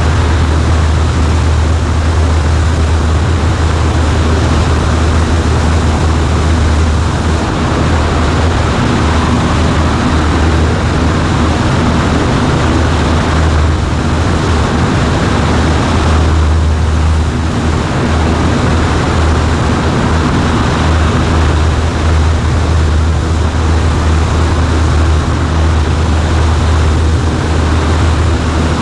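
Cessna 140A's engine and propeller running steadily, heard inside the cabin as a loud, even drone with a deep hum and rushing noise.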